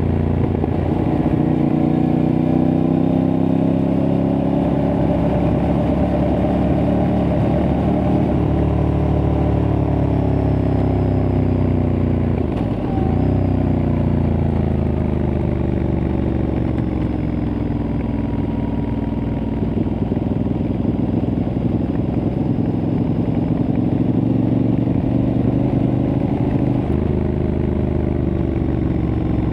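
Aprilia Tuareg 660's parallel-twin engine running through a replica Akrapovic exhaust while riding, its revs rising and falling slowly. About halfway through, the revs dip sharply and pick up again.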